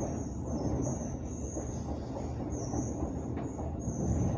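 Running noise of a train heard from inside a passenger carriage: a steady low rumble of wheels on the rails, a few faint clicks, and a high thin wheel squeal that comes and goes.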